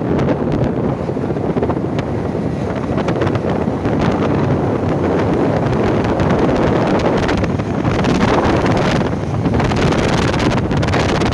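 Wind buffeting the microphone: a loud, steady rumbling rush with no distinct tones.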